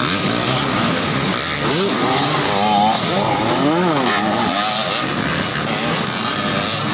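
Off-road motorcycle engines revving, their pitch climbing and dropping again and again over a steady noisy background.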